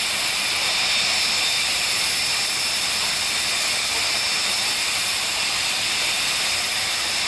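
Jet turbine engine of a jet-powered drag racing car running steadily: a loud, even rush of noise with a constant high-pitched whine that neither rises nor falls.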